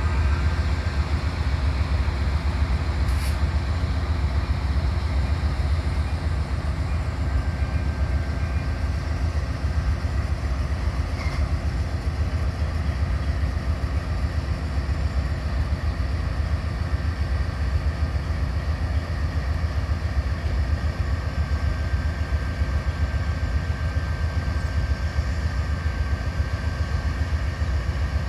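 Freight train rolling steadily by, a continuous low rumble of locomotive and rail cars with a faint steady high tone over it.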